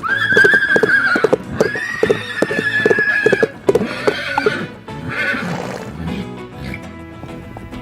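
A horse whinnying four times, two long calls and then two shorter ones, over the clip-clop of hooves, with music in the background.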